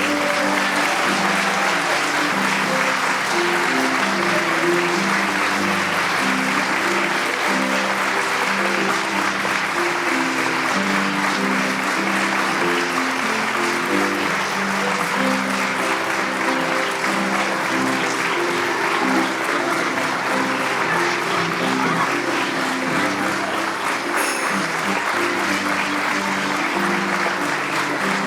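Audience applause, steady and sustained, over instrumental music playing a melody.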